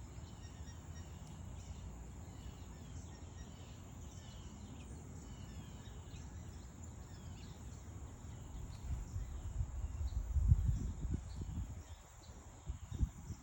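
Small birds chirping with many short, quick falling notes over a steady high-pitched hiss. From about two-thirds of the way in, irregular low rumbling gusts break in, loudest about ten seconds in.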